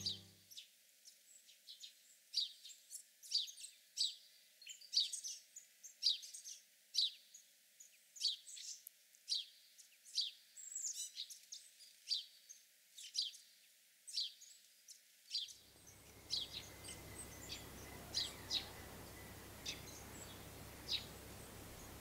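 Small birds chirping in a winter forest: short, high calls, about one or two a second. About fifteen seconds in, a faint steady hiss comes in under them and the calls become sparser.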